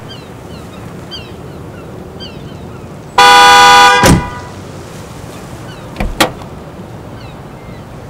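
A car horn sounds once, a single steady blast of just under a second, and a thump follows right after it. Two sharp knocks come about six seconds in, with faint short chirps in the background.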